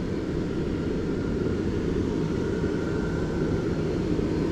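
Steady low vehicle rumble of engine and road noise, with no breaks.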